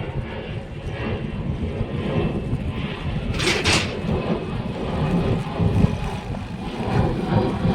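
Uneven low rumble of wind buffeting the microphone while riding a bicycle, with a short hiss about three and a half seconds in.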